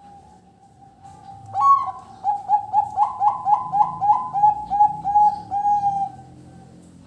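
Zebra dove (perkutut) singing: a held coo, then a fast rhythmic run of about a dozen short cooing notes, roughly three a second, ending on a longer note near the end.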